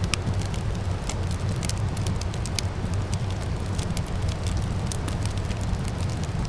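Wood fire in a fireplace crackling, with sharp irregular pops and snaps over a steady low rumble.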